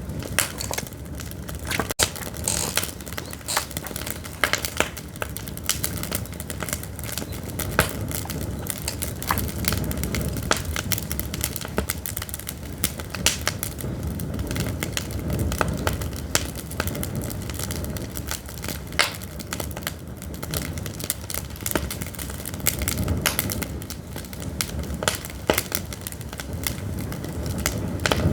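Pine firewood burning in an open fire, crackling and popping with many sharp irregular snaps over a steady low rush of flame.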